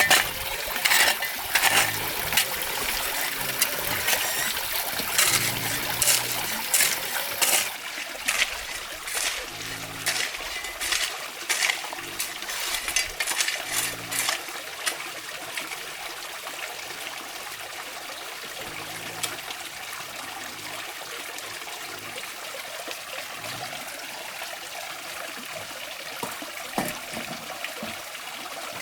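Water trickling and splashing, with a run of sharp splashes and knocks in the first half, then settling into a steady trickling flow.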